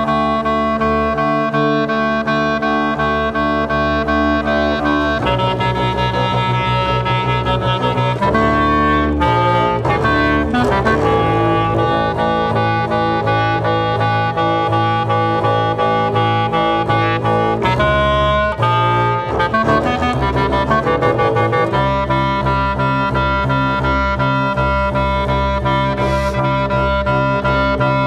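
Experimental chamber music for clarinets and double bass: long held reedy wind tones rich in overtones, changing pitch every few seconds, over a low grainy bass drone.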